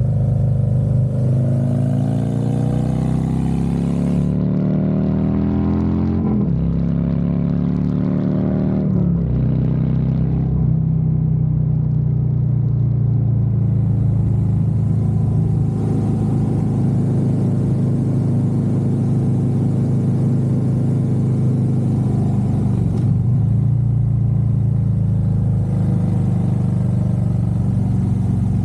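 Harley-Davidson Road Glide V-twin engine accelerating hard. It shifts up twice, the pitch falling back at each shift, then cruises at a steady speed.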